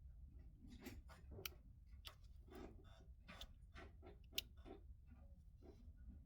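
Faint, irregular clicks and light scrapes of small repair tools and smartwatch parts being handled during disassembly, with a sharper click about four and a half seconds in, over a steady low hum.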